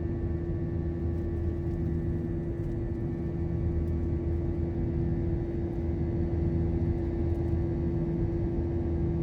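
Airbus A321 airliner cabin noise: a steady low rumble with a constant hum, unchanging throughout.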